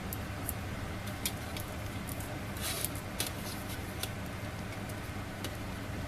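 A few scattered sharp, light clicks and a brief scrape about halfway through, over a steady low hum.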